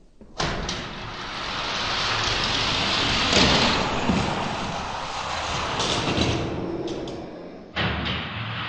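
Die-cast Hot Wheels cars rolling down a plastic track, their wheels making a steady rumbling rattle that swells and fades. It breaks off sharply near the end and a similar run starts again.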